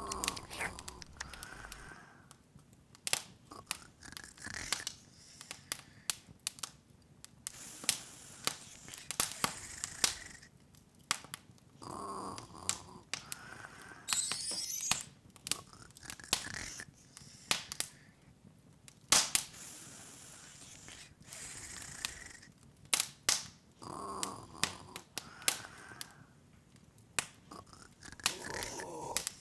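Open log fire crackling, with irregular sharp pops and snaps and softer hissing swells between them. A brief high sparkling twinkle rises about halfway through.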